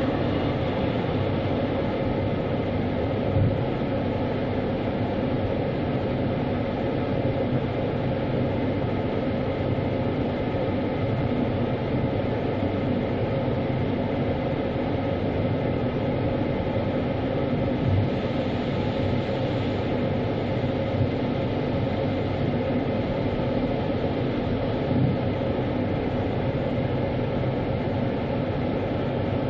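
Automatic car wash equipment running steadily around the car: a continuous rumble and hiss with a constant hum, and a few light knocks.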